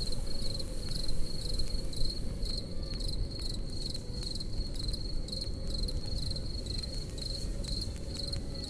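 Crickets chirping in a steady high pulse about twice a second, over the crackle and low rumble of a campfire.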